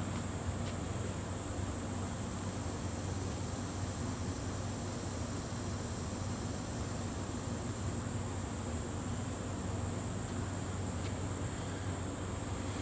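Insects trilling steadily at a single high pitch over a low, even background hum.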